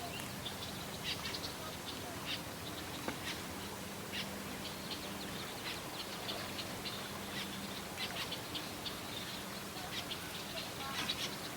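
Small birds chirping: many short, high calls scattered throughout, over a faint steady low hum.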